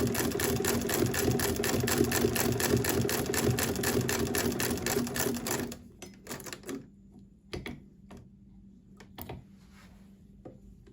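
Singer 12k fiddle-base hand-crank sewing machine stitching with a steady, rapid rhythmic clatter, serviced and in full working order. It stops a little past halfway, followed by a few separate clicks and knocks.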